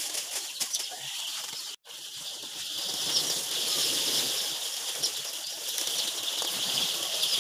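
Many layer hens in a poultry house, a constant high din of overlapping calls with short sharp notes. The sound cuts out completely for a moment about two seconds in.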